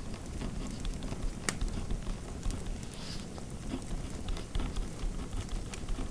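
Fireplace fire crackling: a steady low rumble with scattered sharp pops and snaps.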